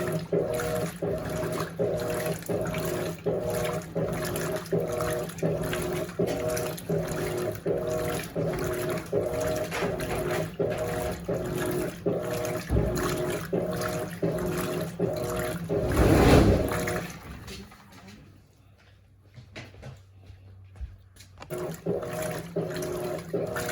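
Electrolux LAC16 top-load washing machine agitating a full tub of water, its agitator turning back and forth in even rhythmic strokes with water sloshing and a motor hum, driven by a WEG 1/4 hp motor from an LT13B. About sixteen seconds in there is a louder surge, then the agitation stops for a few seconds and starts again.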